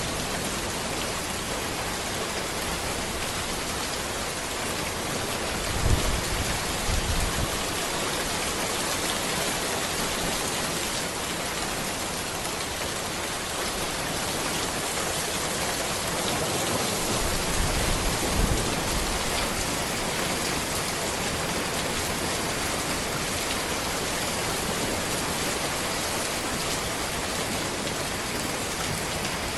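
Steady rain falling on a road and trees, an even hiss of drops, with two short low rumbles about six seconds in and again near eighteen seconds.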